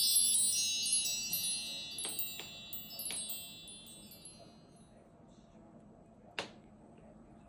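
A cluster of high metal chimes tinkling all together, starting suddenly and fading out over about five seconds, with a few light clicks among them. One sharp click comes about six and a half seconds in.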